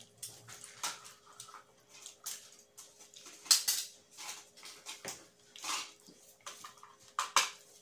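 Close-up eating sounds: wet chewing and lip-smacking of a mouthful of rice and chicken curry, with fingers pressing rice against a plate. Irregular smacks, the loudest a bit after three seconds and around seven seconds.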